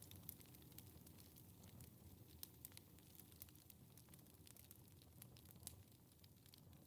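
Wood fire crackling faintly, with scattered sharp pops and snaps over a low rumble of burning, slowly growing quieter.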